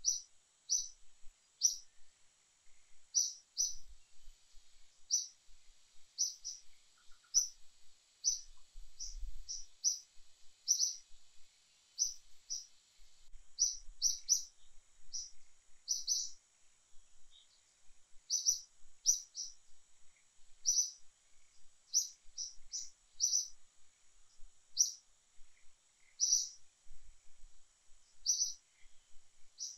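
A small bird chirping over and over: short, high, sharp chirps, irregularly spaced at about one or two a second, over a faint steady high hiss.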